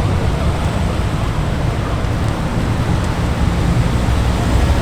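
Car engines idling, a steady low rumble that grows slightly louder near the end.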